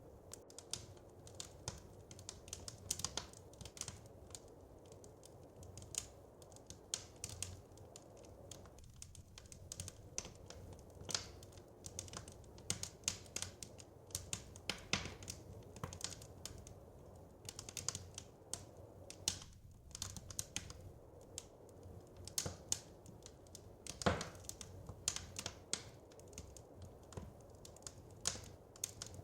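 Wood fire crackling: irregular sharp snaps and pops, several a second, over a low steady hiss of the flames, with one louder pop near the end.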